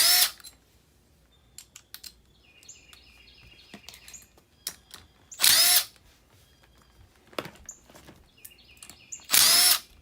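Cordless drill/driver run in three short bursts about four seconds apart, each with a brief rise and fall in pitch, driving the fasteners that hold a furnace blower motor back in its bracket. Small clicks and clinks of hardware and tools between the bursts.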